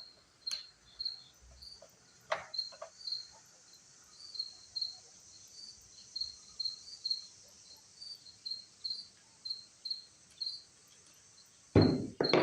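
Crickets chirping steadily in a high, even rhythm of about two to three chirps a second. A few light clicks come in the first seconds, and a louder clatter comes near the end.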